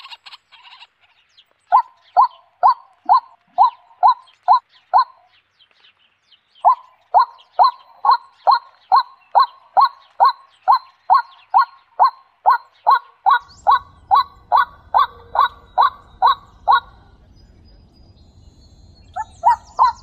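A bird calling a long, even series of short calls, about two and a half a second, with a brief pause about five seconds in; the calls stop a few seconds before the end. A low, steady rumble comes in partway through.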